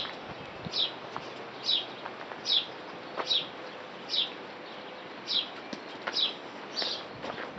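A bird repeating a short, high chirp that slides downward, about once a second.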